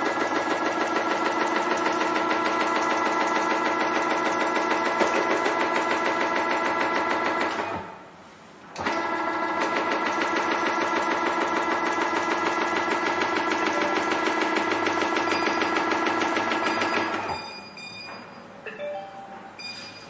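ZQ5000 automatic cutting machine running, its motors giving a steady whine over a rapid, even chatter. It stops briefly about 8 seconds in, runs again, and drops to quieter clicks and a few short high beeps near the end.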